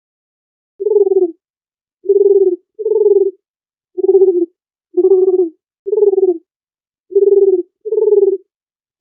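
Dove cooing: eight short, low coos, starting about a second in and spaced roughly a second apart, some coming in close pairs.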